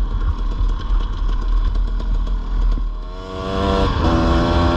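Dirt bike engine running, then from about three seconds in revving up and pulling hard, with a brief drop in pitch near the end like a gear change.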